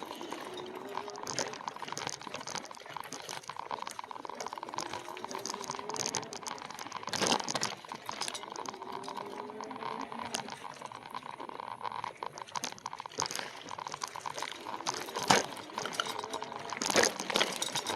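An e-bike being ridden over a rough trail: tyres crunching and rattling over the ground with a steady run of small clicks and a few louder knocks, under a faint whine that slowly rises and falls in pitch.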